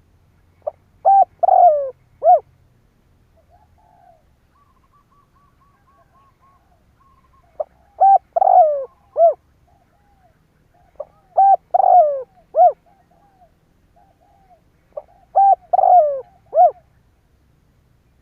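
Spotted dove cooing: four phrases of several short coos each, repeated about every four seconds. This is the territorial call used as a lure to provoke wild males.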